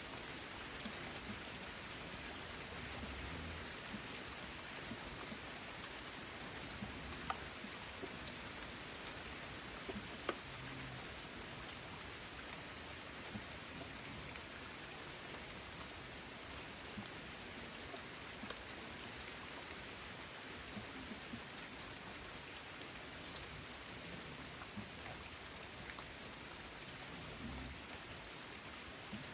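Steady rain falling on a corrugated zinc roof: an even hiss with scattered louder drop ticks, two of them sharper about seven and ten seconds in.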